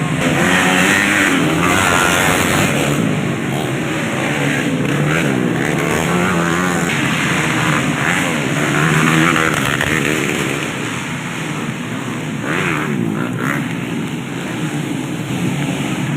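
Racing motorcycle engines running hard, their pitch rising and falling as the bikes accelerate and change gear.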